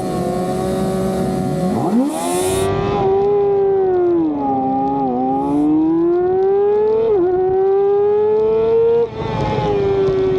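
Racing motorcycle engine heard onboard under hard throttle: the revs sweep up sharply about two seconds in, sag and climb again, break briefly at a gear change about seven seconds in, then drop suddenly near nine seconds as the throttle closes.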